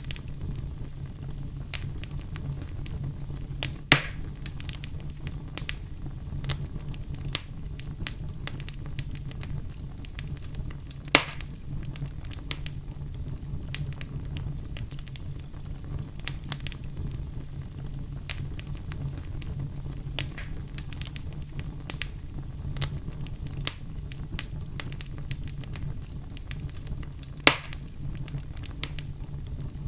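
Wood fire burning in a fireplace: a steady low rumble of flame with frequent small crackles, and three louder sharp pops, the first about four seconds in, one near the middle and one near the end.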